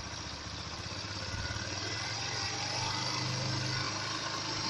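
BMP 150cc motorcycle's single-cylinder engine idling on its own, its speed rising a little over the first couple of seconds and then holding steady. The idle screw has been turned in too far: the idle is set too high, loud enough to be called very disturbing, and burns a lot of fuel.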